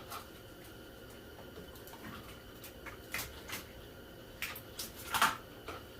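A few scattered clicks and knocks of hands and tools working on parts in a car's engine bay, the loudest about five seconds in.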